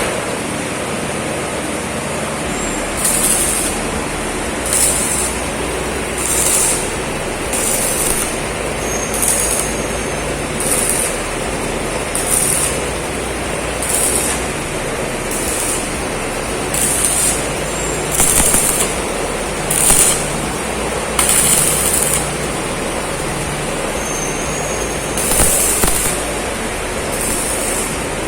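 A machine running with a steady hum, with short hissing bursts about every one to two seconds.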